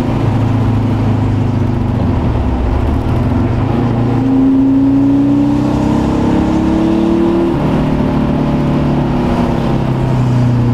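Porsche 914 2.0's air-cooled flat-four engine, heard from inside the open car while driving. About four seconds in, the revs climb steadily for a few seconds, then fall back.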